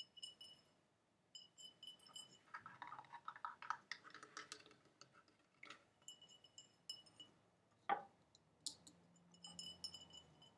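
Soft, close-up tapping on a glass object: quick runs of small taps that ring with a clear, high tone. A denser stretch of crackly scratching comes a few seconds in, and one sharper tap near the eight-second mark.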